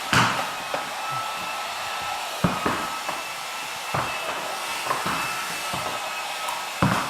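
Electric hair dryer running steadily, a blowing hiss with a faint whine, while it is used on a horse. Several short knocks or thumps sound at irregular moments over it.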